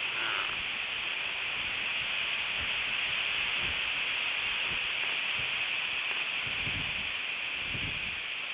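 Strong wind on an outdoor microphone: a steady hiss with irregular low rumbles of gusts hitting the mic, the heaviest near the end.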